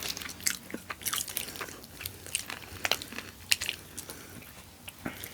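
A person chewing and biting into a lemon pepper chicken wing close to the microphone: a quick, irregular run of sharp mouth clicks and smacks.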